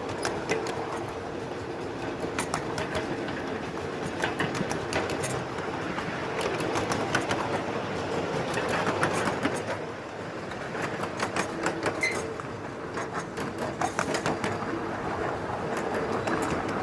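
Miniature live-steam train running along its track: a steady rolling noise with short clicks of the wheels over rail joints coming in quick clusters.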